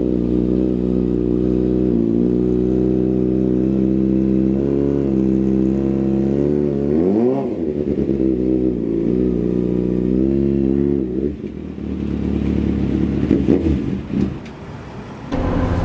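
Kawasaki Ninja 636 inline-four engine idling, then revving briefly as the bike is ridden up a loading ramp into a van, and dying away about eleven seconds in. A few clunks follow as the bike settles inside the van.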